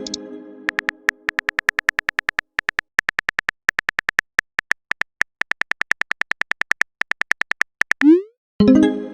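Chat-app sound effects: a ringing message chime dies away, then rapid, evenly spaced typing clicks, about eight a second, run for several seconds. Near the end there is a short rising blip, and another ringing chime starts.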